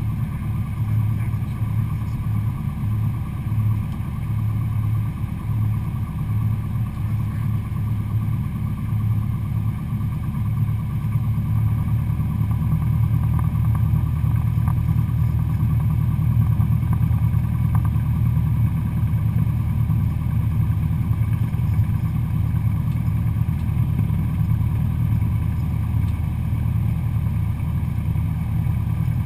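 Cessna 172SP Skyhawk's four-cylinder Lycoming engine and propeller running with a steady low drone. It gets somewhat louder and smoother from about twelve seconds in.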